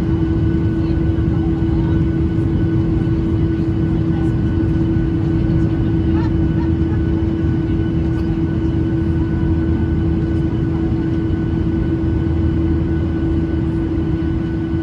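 Cabin noise of a Boeing 737-800 with its CFM56-7B turbofans running: a steady low rumble under a constant engine hum, with no rise or fall in pitch.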